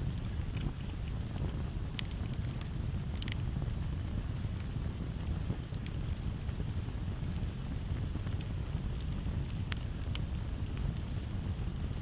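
Campfire crackling, with sharp pops scattered through, over a steady low rumble of breeze. Crickets keep up a steady high trill in the background.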